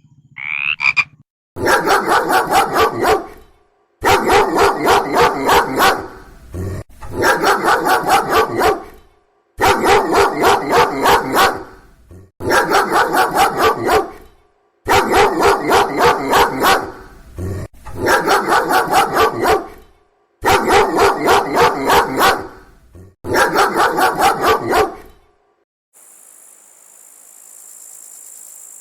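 An animal call repeated in nine pulsing bursts of about two seconds each, separated by short pauses. Near the end it gives way to a steady, high insect trill.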